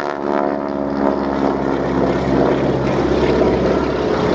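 Boeing Stearman biplane's radial engine and propeller droning steadily in flight overhead.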